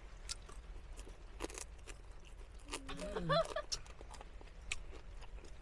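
Crunching bites and chewing of fried chicken, heard as scattered sharp crackles, with a short voiced sound about three seconds in.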